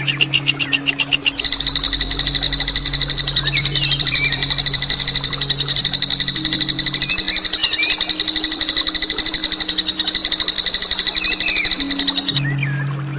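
Songbird masteran song: a loud, harsh, very rapid rolling trill ('ngerol') held for about twelve seconds, the high, hard 'nembak' delivery used to tutor competition birds, cutting off abruptly near the end. Fainter chirps of another bird sound underneath, along with a low steady hum.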